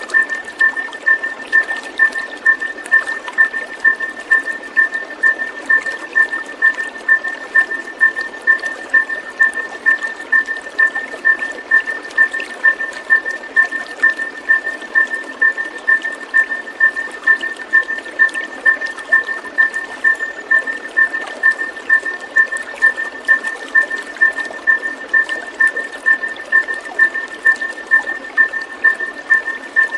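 Running water, with a steady high pulsed tone repeating evenly a little under twice a second over it.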